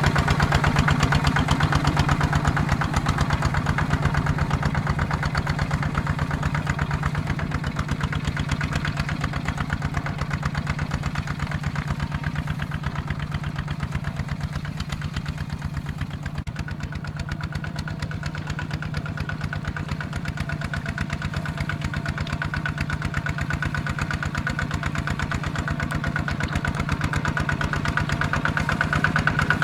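ZT 155 tractor's diesel engine running steadily with a fast, even chug, getting a little quieter in the middle and louder again near the end.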